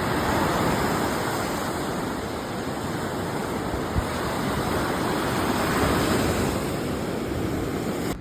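Steady rushing of water, an even noise that holds at much the same level throughout.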